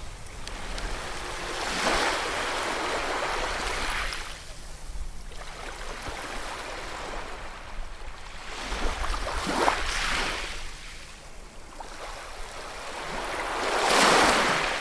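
Ocean waves breaking and washing on the shore, each surge swelling and fading, three main breakers with the loudest near the end.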